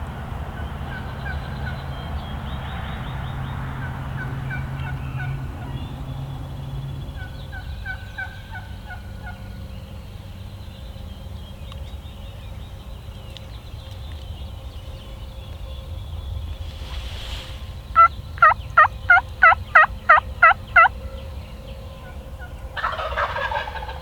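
Wild turkeys calling at dawn. Faint, distant repeated calls come in the first part, then a loud run of about ten evenly spaced calls about three-quarters of the way through, and a short, dense burst near the end.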